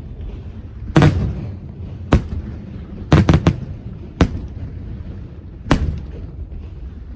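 Aerial fireworks shells bursting: about seven sharp bangs, three of them in quick succession about three seconds in, each followed by a rumbling echo.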